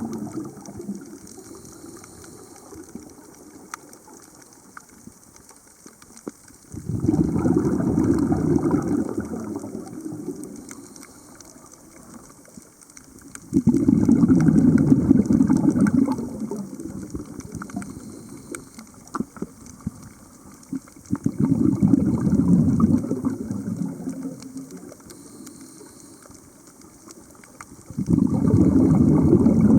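Scuba diver's exhaled bubbles bursting from the regulator underwater, a gushing rush about every seven seconds in time with the diver's breathing, with quieter inhalations between.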